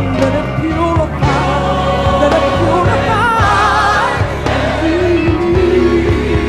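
Live gospel music: a band with bass and drums plays under a sung melody, and a held note wavers with wide vibrato about halfway through.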